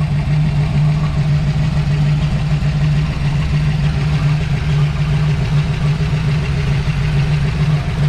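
Car engine idling steadily just after an oil change, left running so the fresh oil circulates.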